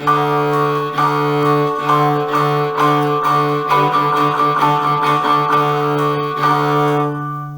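Cello bowing a rhythm exercise of short, even strokes on one repeated low note, eighth notes and faster sixteenth notes, using little bow on the quick notes.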